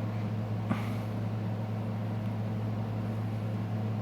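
One sharp click about three-quarters of a second in, a flex-cable connector being pressed onto the Galaxy S6's board, over a steady low hum.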